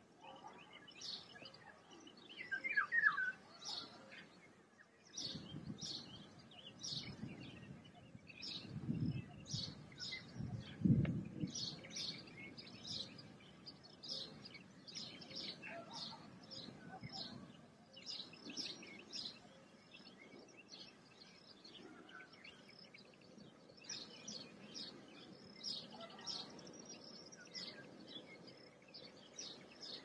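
Songbirds chirping, with short high calls repeating throughout. A couple of low rumbles come in near the middle.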